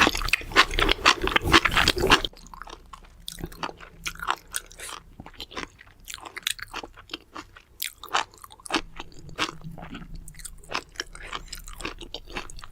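Close-miked chewing of mala xiang guo, a spicy stir-fried dish: crisp crunches and wet mouth clicks, loud and dense for the first two seconds, then quieter scattered bites and chews.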